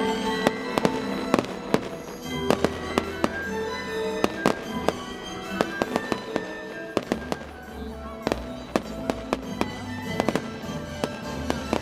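Fireworks bursting overhead: frequent sharp bangs and pops at irregular intervals, over music with held notes and a low bass line.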